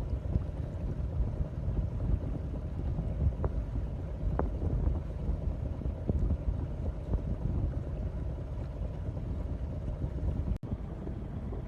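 Wind buffeting the microphone aboard a boat, a low, gusty rumble, mixed with water noise. It cuts out for an instant about ten and a half seconds in.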